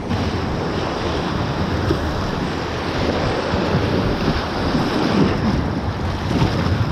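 Wind buffeting the microphone over steady rushing river water.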